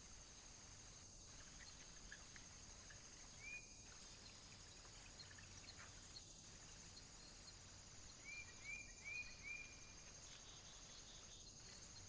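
Faint small-bird chirps over a steady high hiss: one short chirp about three seconds in, then four quick chirps in a row near the end.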